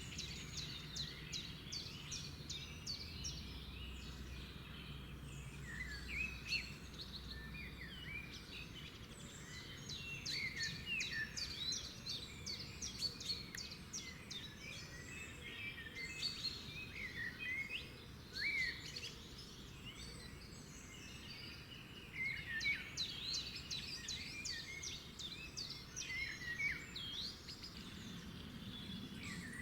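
Several songbirds chirping and singing, with short rapid trills and twitters coming in clusters, over a faint steady background hiss.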